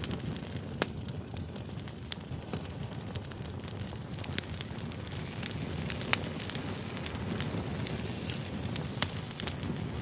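Burning firewood: a steady low rush of flame with frequent small crackles and a few sharper pops.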